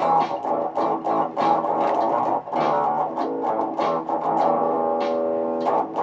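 Looped guitar music: picked guitar notes repeating in a quick pattern over a steady low note, layered through a looper and effects.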